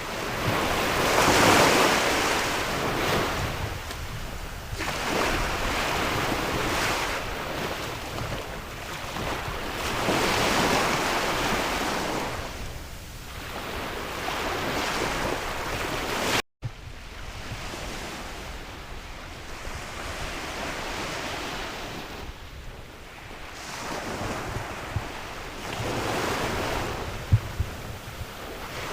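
Sea waves breaking and washing ashore, swelling and fading every four to five seconds, with wind rumbling on the microphone. The sound drops out suddenly for a split second about halfway through.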